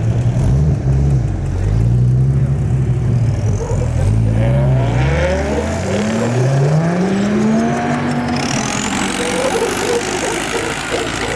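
A car engine running loudly, then accelerating hard, its pitch climbing through the revs a few seconds in, with a high whine rising alongside.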